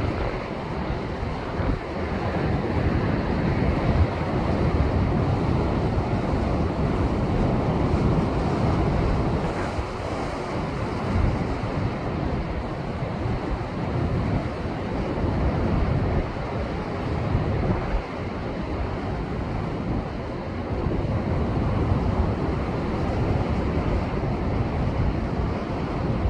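Rough post-typhoon surf breaking and washing over rocks, swelling and easing every few seconds, with wind buffeting the microphone.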